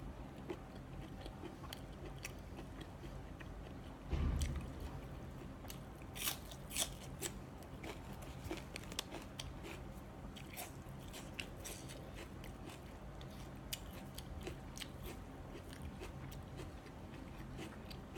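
A person chewing a mouthful of sticky rice and stewed chicken liver close to the microphone, with scattered sharp wet clicks and smacks. A brief low thump comes about four seconds in.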